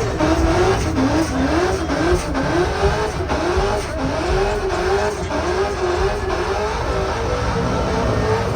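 Car engine revving up and down over and over, about two rises and falls a second, with a haze of tire noise underneath.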